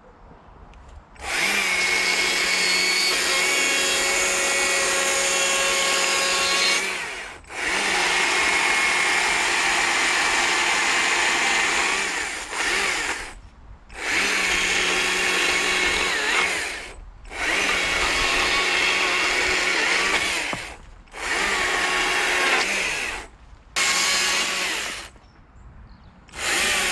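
Carving chainsaw running at full throttle through wood in repeated stretches of a few seconds, easing off briefly between cuts, about seven times.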